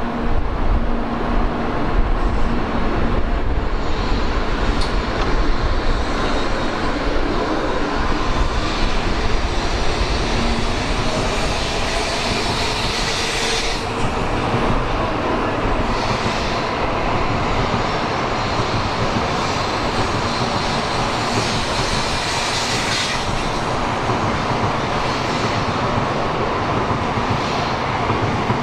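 Tokaido Shinkansen N700-series train running past at close range: a loud, steady rumble of wheels and running gear, with a few brief hissing swells.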